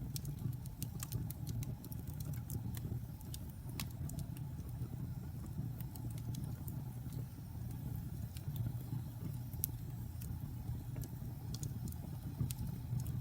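Fire burning in a fireplace, crackling and popping at irregular moments over a steady low rumble.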